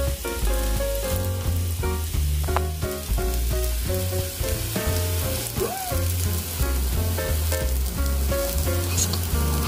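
Kimchi pancake sizzling as it fries in a frying pan, under background music with a steady bass line and melody.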